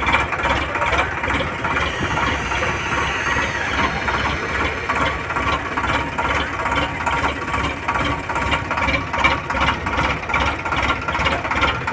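Tractor engine running steadily with an even beat.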